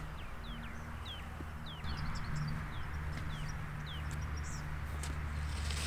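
A bird repeating a short downward-sliding chirp two or three times a second, stopping about four seconds in, over a low steady hum.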